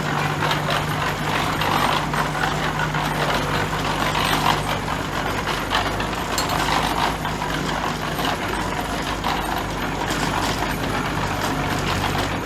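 Heavy construction machinery's diesel engine running steadily, with rattling and clanking over it.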